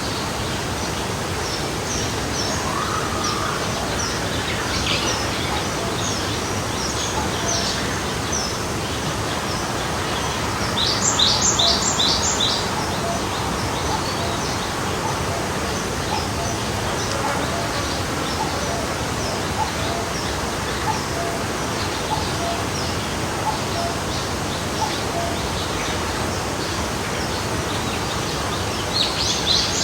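Forest stream flowing steadily, with songbirds chirping over it. A louder run of about five quick, high chirps comes about eleven seconds in and again right at the end.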